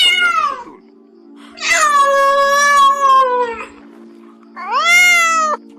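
A cat meowing three times: a short falling meow, a long drawn-out meow, then a shorter rising one, over a steady background music tone.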